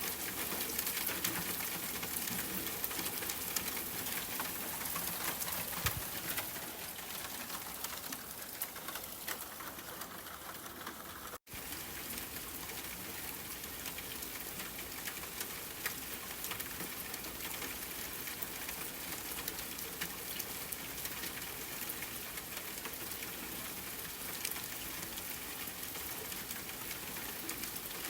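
Steady rainfall mixed with a crackling wood fire, a haze of rain noise dotted with many small crackles. The sound cuts out for an instant about eleven seconds in.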